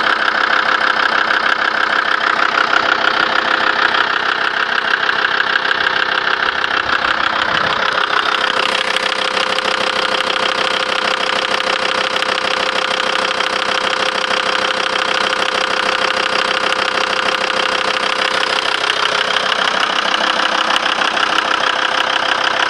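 Audi AAT 2.5 TDI five-cylinder turbodiesel engine running at idle. Its tone shifts briefly about eight seconds in and again near nineteen seconds.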